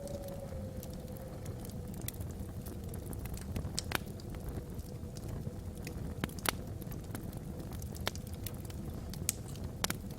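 Wood logs burning in a fireplace, with sharp crackles and pops scattered irregularly over a low rumble of the fire; the loudest pops come about four and six and a half seconds in. Under it a faint, steady howl of wind across the chimney top.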